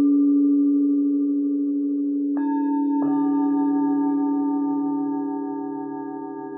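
Singing bowls ringing in long, overlapping tones. Two more bowls are struck about two and a half and three seconds in, adding higher notes over the low one that is still sounding.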